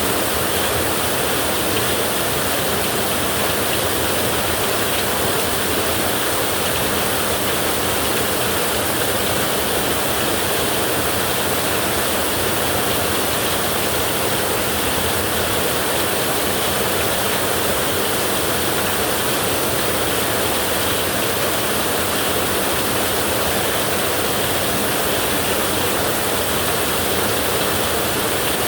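Heavy rain falling on a tin roof, a steady even hiss with no let-up.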